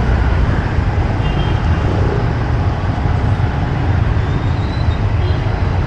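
Steady rumble of a motorcycle ride through city traffic: engine and road noise with wind on the microphone, and surrounding traffic.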